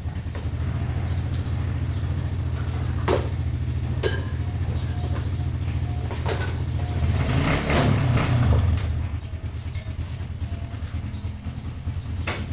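A motor vehicle engine running steadily with a low hum. A louder vehicle sound swells and fades about seven to nine seconds in, and a few sharp knocks sound now and then.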